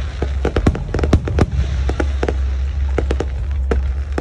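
Fireworks bursting, with many sharp bangs in rapid, irregular succession, some overlapping, over a steady low rumble.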